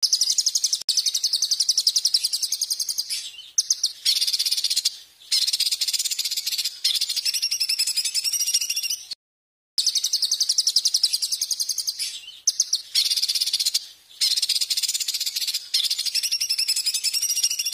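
Songbird singing a fast, dense, high-pitched chattering trill in phrases of one to a few seconds. It breaks off abruptly about halfway through and starts again half a second later.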